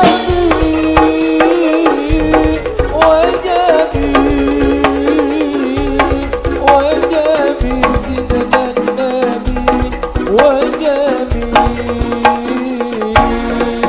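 Marawis music: a fast pattern of hand-struck drums and jingles over a held, wavering melody line, with deep bass drum strokes coming in and dropping out in blocks.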